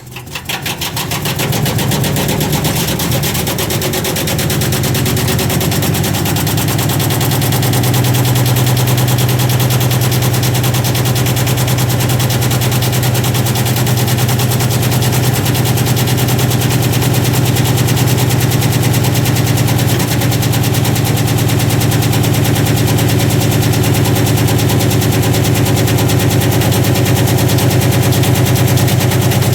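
Washing machine running with a stone loose in the drum: a rapid, continuous clatter of the stone battering the drum over the machine's hum, which builds over the first several seconds and then holds steady.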